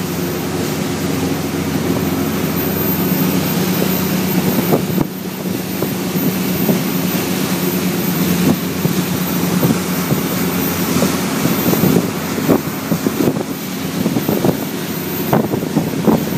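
Yanmar marine diesel of a 39 Mainship motor yacht running at about wide-open throttle under way, a loud steady drone. Wind buffets the microphone in irregular gusts over the rush of water.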